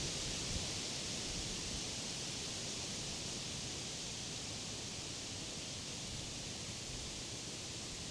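Wind rustling through the leaves of summer trees and grass, a steady hiss of foliage that eases off slightly over the stretch.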